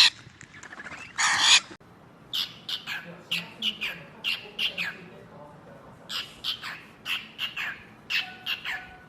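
Parrot giving a run of short squawks, each falling in pitch, a few a second in bursts, after a louder harsher call about a second in.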